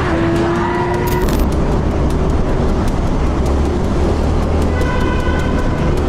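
A road vehicle on the move: a steady engine note rising slowly for about the first second, then constant rumbling road and wind noise. A brief steady tone sounds about five seconds in.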